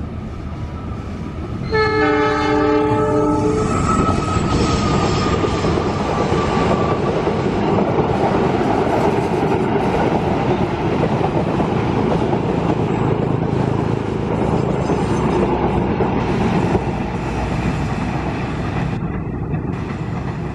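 An Indonesian KAI diesel locomotive gives one multi-note horn blast of about two seconds, about two seconds in. Then it and its stainless-steel passenger coaches pass close by with a loud, steady rumble of wheels on the rails. The rumble eases a little near the end as the train moves away.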